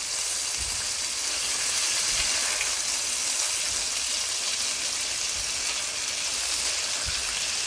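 Beef seekh kababs sizzling steadily as they shallow-fry in oil in a pan over a medium flame, with a slotted spatula turning them among the oil and a few soft knocks from it.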